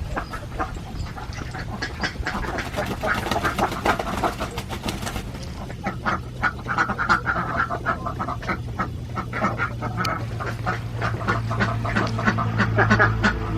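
A flock of Alabio ducks quacking, many short calls overlapping one another without pause. A low steady hum runs underneath and grows louder near the end.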